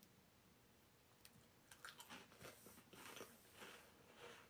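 Faint crunching as a person bites into and chews a crisp cheese-and-butter cracker: quiet at first, then a run of short crisp crunches from about a second in.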